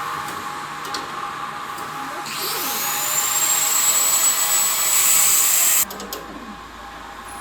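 Vacuum cleaner motor switched on a little over two seconds in, its whine rising as it spins up. It runs for about three and a half seconds, then cuts off suddenly, leaving a steady background hum.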